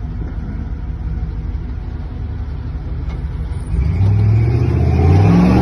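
An off-road SUV's engine running at low revs as it crawls up steep rock, then revving hard and loud about four seconds in, its pitch wavering up and down near the end.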